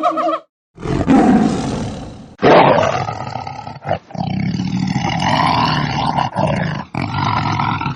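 A large wild animal roaring, several loud, rough calls separated by abrupt breaks.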